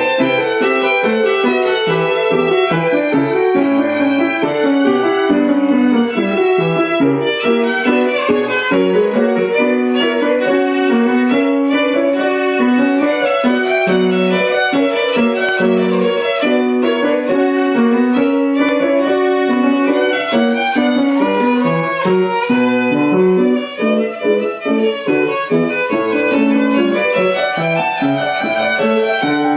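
Violin playing a classical piece in a continuous run of short, quickly changing notes.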